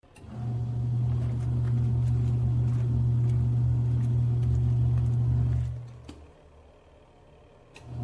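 Mini portable washing machine's motor running with a steady low hum, cutting out for about two seconds near the end and starting up again, as the wash cycle pauses between runs. A couple of sharp clicks come during the pause.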